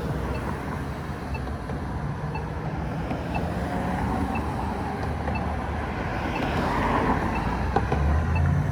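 Steady road and traffic noise during an electric unicycle ride, swelling about seven seconds in. A faint tick sounds about once a second.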